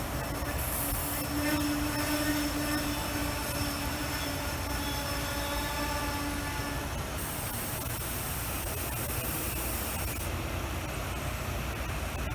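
A train running on the rails with a steady rumble. For roughly the first six seconds a sustained pitched tone rings over it, followed by a few seconds of high hiss.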